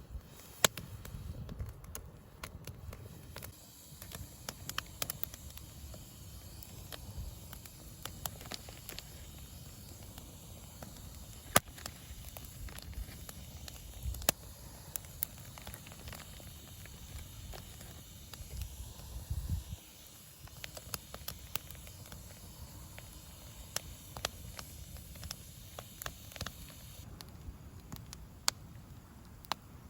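Wood bonfire crackling, with sharp irregular pops and snaps over a low rumble.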